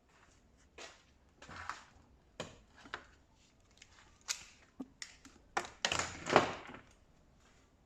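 Irregular clicks, knocks and short scrapes of parts being handled and fitted during tumble dryer assembly, the loudest cluster about six seconds in.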